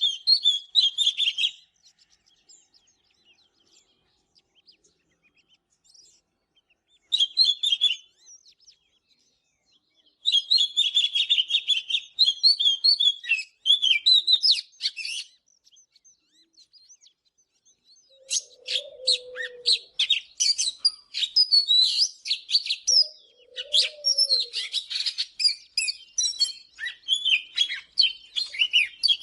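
Oriental magpie-robin singing: bursts of rapid, varied high whistles and chirps separated by pauses of a few seconds, becoming almost continuous in the last ten seconds. Twice a short, much lower warble sounds beneath the song.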